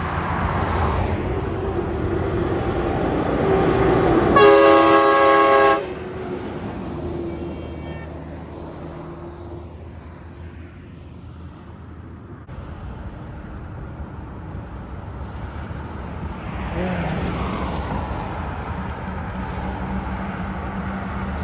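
A heavy truck's air horn blows one loud, steady note for about a second and a half, about four seconds in, between passing road traffic. Another vehicle passes near the end.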